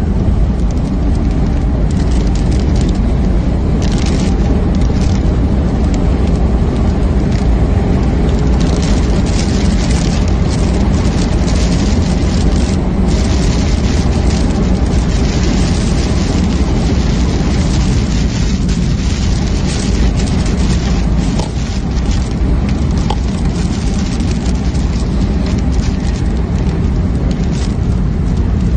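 Storm winds buffeting the microphone: a loud, steady low rumble with a rushing hiss over it that surges in gusts.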